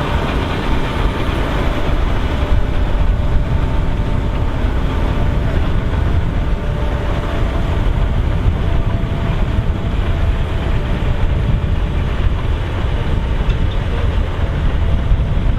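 John Deere 7230R tractor and trailed AVR Spirit 9200 potato harvester working together, the engine and harvester machinery running steadily.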